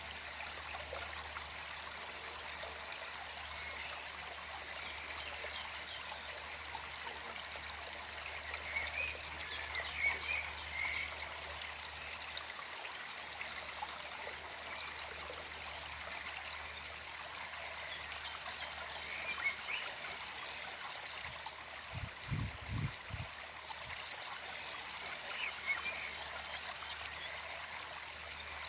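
Gentle forest stream flowing and trickling steadily, with birds in the background giving short bursts of three or four high chirps every several seconds. A brief low rumble comes about three-quarters of the way through.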